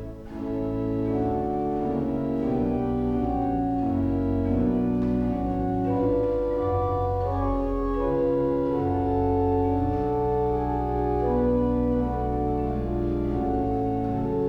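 Church organ playing the closing voluntary after the final blessing: full held chords over deep pedal notes, changing every second or so.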